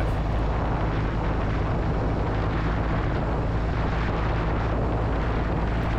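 Kawasaki W800's air-cooled parallel-twin engine running at a steady cruise, under a steady rush of wind noise from riding.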